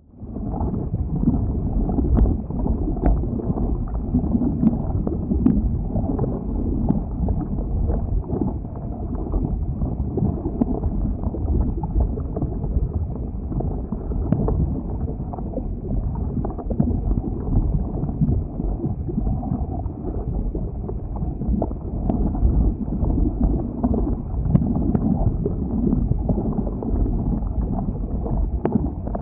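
Lava flow: a steady low rumble with scattered sharp crackles throughout.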